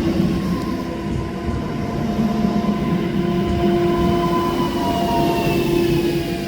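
Train passing at a railway halt, a steady rumble carrying a whine that slowly falls in pitch in the second half.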